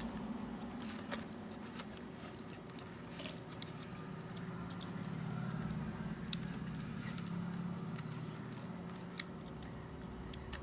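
Scattered light clicks and taps from small repair tools working on a phone, over a steady low rumble.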